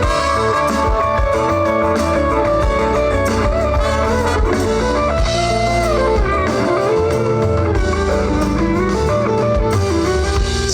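Live band playing an instrumental break: a guitar plays a melodic lead line with bending notes over bass and drums.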